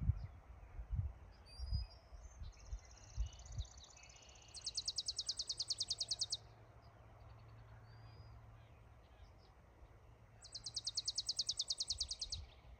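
Songbirds singing in the open. Twice, about five seconds apart, a bird sings a loud, rapid, even trill of identical high notes lasting about two seconds. Fainter chirps come in between, and low thumps sound in the first few seconds.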